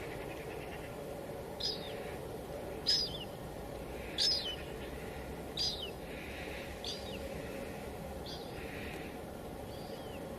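Steady hiss of light drizzle with a bird calling over it. The bird gives a short, high, falling chirp about every second and a half, seven times, the later calls fainter.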